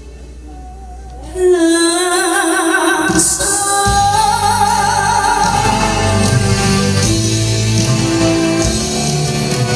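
Live performance of a Korean ballad: a woman sings long, wavering held notes over band accompaniment. It starts quietly, the voice comes in loud about a second and a half in, and the full band with a steady beat joins a couple of seconds later.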